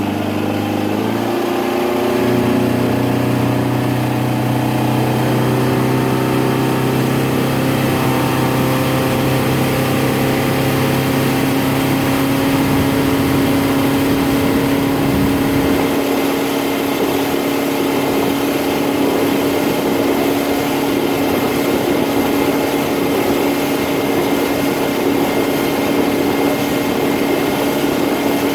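Motorboat engine running under way. Its pitch rises over the first couple of seconds as it comes up to speed, then holds steady, over a constant rushing noise.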